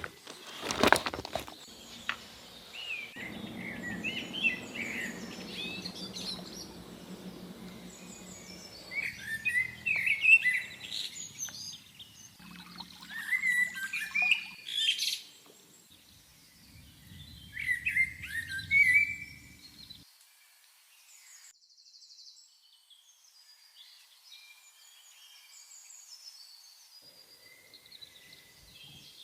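Small birds chirping in several short bursts of quick high calls, with a few sharp knocks at the very start and a low steady rumble beneath some of the calls.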